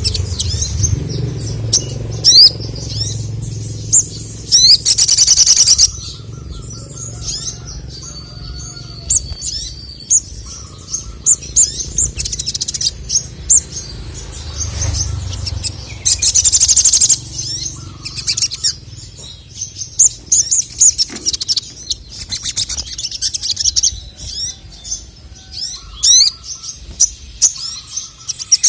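Male ruby-cheeked sunbird (sogok ontong) singing: a fast run of high, thin chirps and sweeps, broken several times by loud, rapid trills about a second long.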